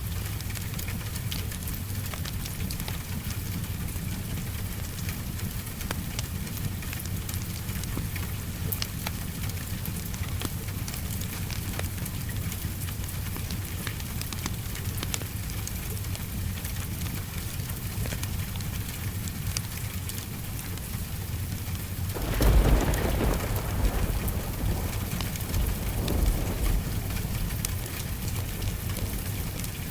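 Steady rain with the small pops and crackles of a wood fire throughout. About 22 seconds in, a roll of thunder rumbles in, swells again a few seconds later and fades.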